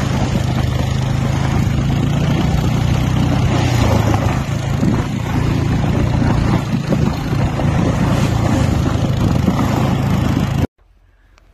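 Engine of a vehicle towing a sled running steadily, with a loud rushing noise over it. Both cut off abruptly near the end.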